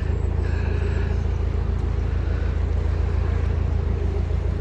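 Narrowboat's diesel engine running steadily under way, a constant low rumble.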